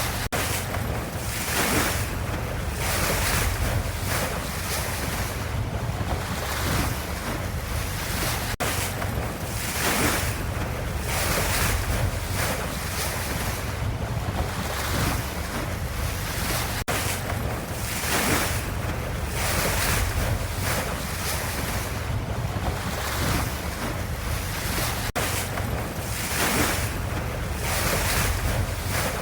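Ocean wave ambience: a continuous wash of water with a deep rumble underneath and swells of hiss every second or two. It repeats as a loop about every eight seconds.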